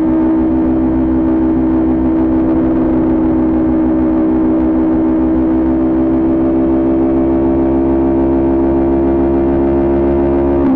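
Kawasaki Ninja 400 parallel-twin engine running at steady high revs, its pitch creeping slowly upward as the bike holds speed.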